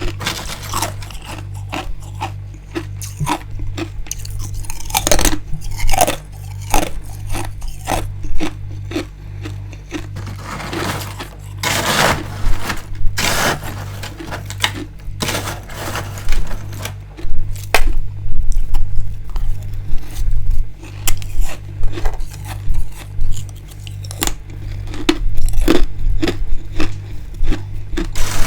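Freezer frost and ice being bitten and chewed close to the microphone: repeated crisp crunches and crackles, with a louder, longer crunching stretch about twelve seconds in. A steady low pulsing hum runs underneath.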